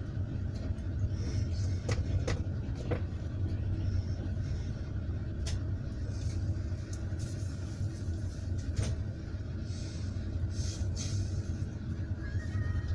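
Steady low rumble of a moving passenger train heard from inside the carriage, its wheels running on the rails, with a few scattered sharp clicks.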